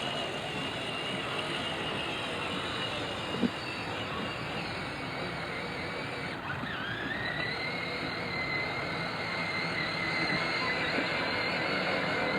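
A small motor running steadily with a whine that dips and then climbs to a new steady pitch about six seconds in. A single sharp click comes a few seconds in.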